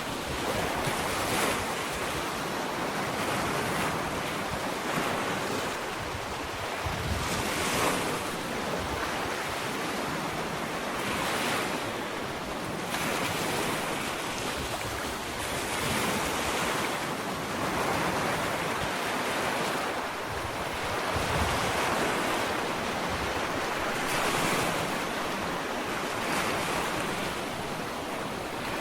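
Small ocean waves breaking and washing up a sandy beach in a continuous surf wash, swelling every few seconds.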